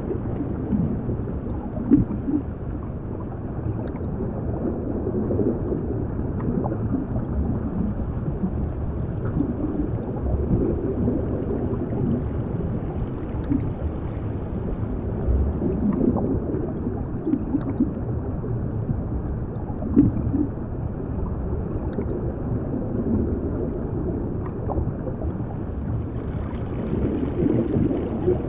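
Underwater ambience: a steady muffled low rumble with gurgling bubbles rising now and then, and a couple of louder bubble pops.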